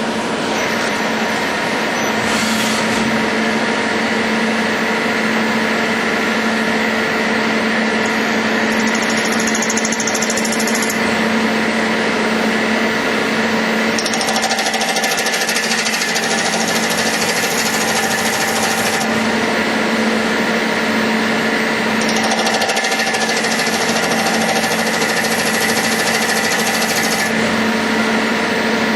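CNC metal lathe running: a steady mechanical hum and rapid buzzing rattle, with a brighter high hiss that cuts in and out in stretches of several seconds.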